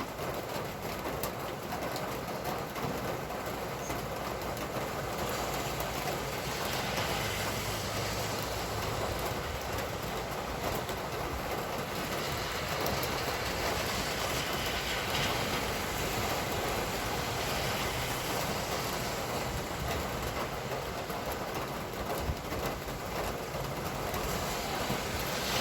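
Steady rain falling, an even hiss with fine drop clicks, with the low hum of vehicles passing on the wet road at times.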